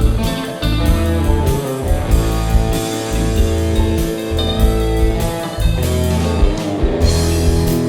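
Instrumental blues band music: guitar over a bass line and a drum beat, with no singing.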